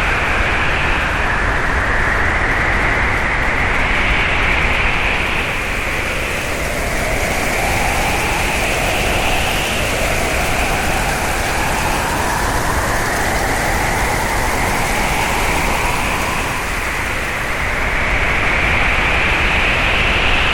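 Hurricane wind blowing hard: a steady loud rush with a high whistle that slowly rises and falls in pitch, and a fainter lower whistle gliding beneath it midway.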